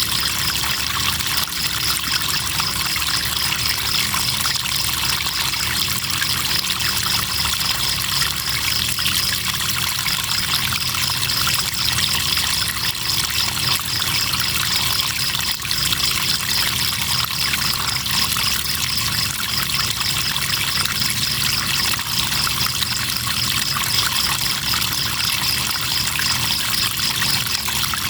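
River water trickling and flowing steadily, with crickets chirping in a fast pulsing trill over it. The trill drops out briefly about ten seconds in.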